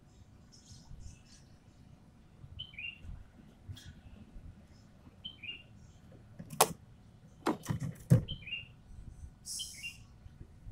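Ekek keling bird giving short, harsh calls that drop in pitch, repeated every two to three seconds. Several sharp knocks or clicks come near the middle and are the loudest sounds.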